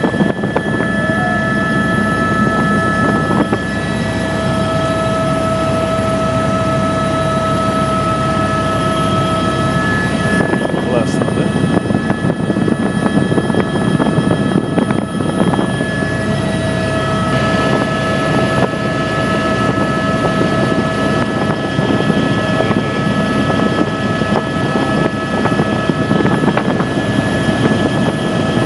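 Helicopter in flight, heard from aboard: a steady, loud rush of engine and rotor noise with several constant high whining tones, which thin out for a few seconds midway and then return.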